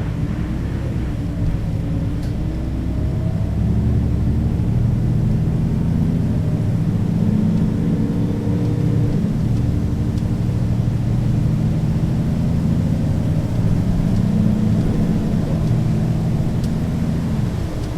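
Mercedes-Benz O 530 G Citaro articulated bus's diesel engine pulling under load through its ZF automatic gearbox: the engine note climbs, drops back about nine seconds in, climbs again and falls away near the end.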